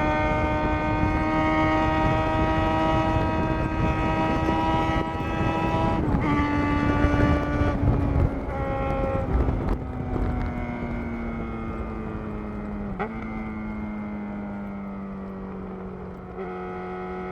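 2011 Yamaha XJ6's inline-four engine running through a Black Widow full aftermarket exhaust, heard while riding: a loud, steady, high engine note that slowly falls in pitch, broken briefly a few times. It grows quieter in the second half as the bike slows, with wind and road rumble underneath.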